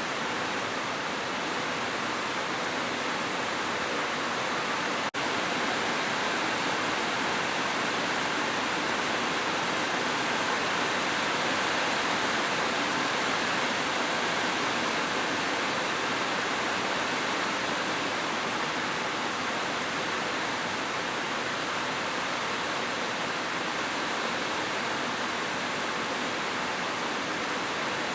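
Heavy rain, a steady even hiss with no single drops standing out, broken by a split-second dropout about five seconds in.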